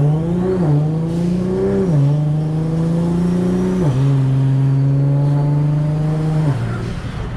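Car engine accelerating hard through the gears: the revs climb, drop sharply at each of three upshifts about a second and a half apart, then fall away as the throttle is lifted near the end.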